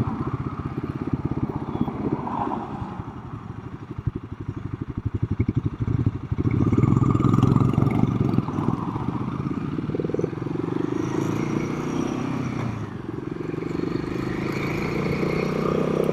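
Royal Enfield Himalayan 452's single-cylinder engine running on the road at low revs, its separate firing pulses plainly heard. From about six seconds in it pulls harder and gets louder, and its pitch rises in steps.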